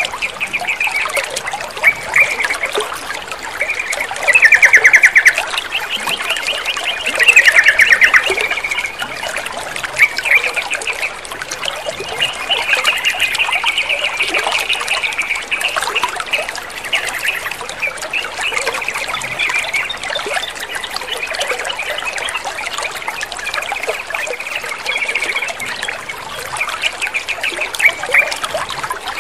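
Yellow-vented bulbul song: chattering, rapid-note phrases repeated throughout, with two louder trills about four and seven seconds in. Under it runs a steady sound of trickling water.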